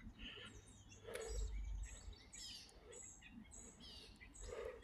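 Songbirds chirping faintly, with a brief low rumble about a second in.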